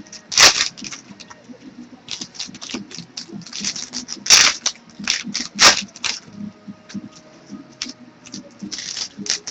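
Baseball trading cards being flipped and slid through the hands: a run of quick flicks and scrapes, with three sharper snaps about half a second, four and a half and nearly six seconds in.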